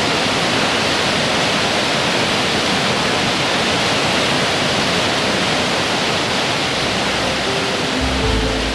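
Kapuzbaşı waterfall cascade, a steady, loud rush of falling water. Music fades in near the end.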